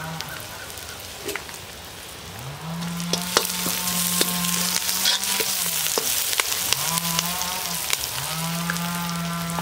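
Sliced onions, green chillies and curry leaves sizzling in hot oil in an iron kadai, stirred with a metal perforated ladle that clicks against the pan now and then. Behind the frying, long low steady droning tones come and go three times, the first beginning a couple of seconds in.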